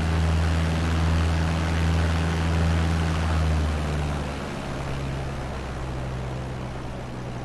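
Cessna light aircraft's piston engine and propeller droning steadily, heard from inside the cabin with a wide rushing noise over the low hum. A little under four seconds in, the drone drops in pitch and gets quieter, then holds steady at the lower note.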